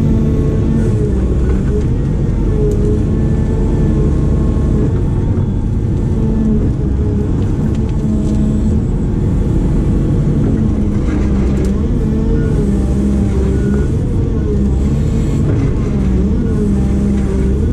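Diesel engine of a heavy construction machine running steadily and loudly, its pitch wavering slightly up and down as the load changes.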